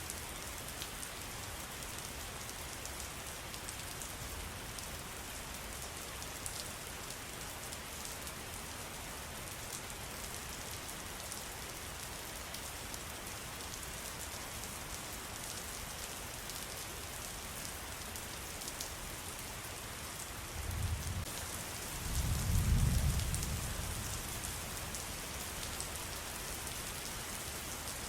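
Steady pattering of falling water drops, with many small ticks over an even hiss. A low rumble swells about three quarters of the way through and fades a few seconds later.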